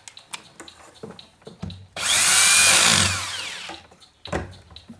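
Power drill spinning up in one burst of nearly two seconds, its motor whine rising and then falling away, driving the nut onto the Husqvarna 240 chainsaw's flywheel. Small clicks and taps of parts being handled come before and after it.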